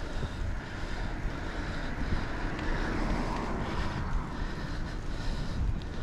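Wind buffeting a chest-mounted GoPro's microphone during a bicycle ride, a steady low rumble with a broader swell of noise about three seconds in.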